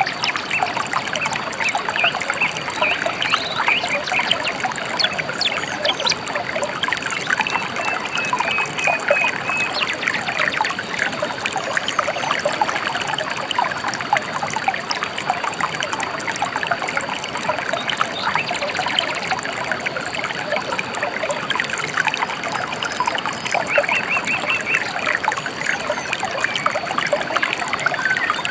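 A shallow river babbling and trickling steadily over stones. Birds chirp over it now and then, with a quick run of high notes about eight seconds in and another near the end.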